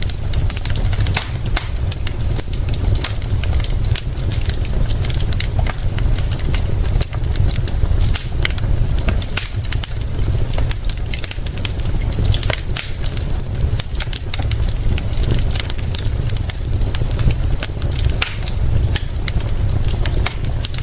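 Wood fire crackling with frequent sharp pops, over a steady hiss of rain and a constant low rumble.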